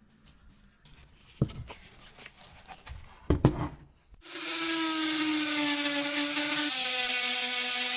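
Two sharp knocks from objects being handled, then a power tool starts about four seconds in and runs steadily at a fixed pitch, with a hiss, its pitch dropping slightly once.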